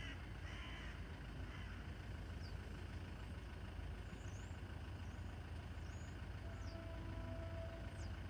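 Quiet outdoor background with a steady low rumble, a crow cawing twice in the first second, and a few faint high bird chirps later on.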